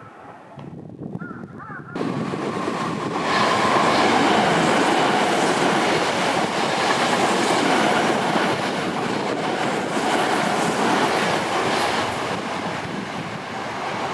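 Seibu Railway electric train running past at close range: the noise of wheels on rails starts suddenly about two seconds in, grows louder a second later, then runs steadily.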